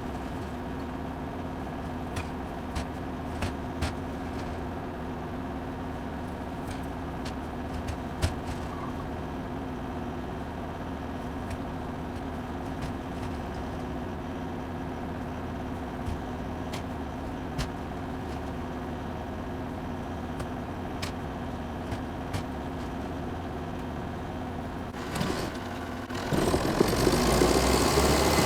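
The engine of a 64-year-old Volvo tractor running steadily at low revs, with a few light clicks and knocks over it. Near the end the sound jumps suddenly and becomes much louder and rougher.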